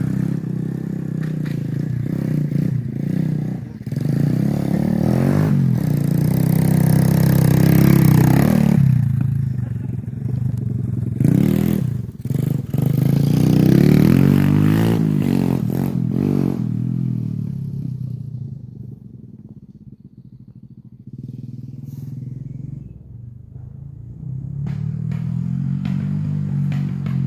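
Honda XR pit bike's single-cylinder four-stroke engine revving up and down repeatedly as it is ridden, dying away about two-thirds through as the bike moves off, then building again near the end.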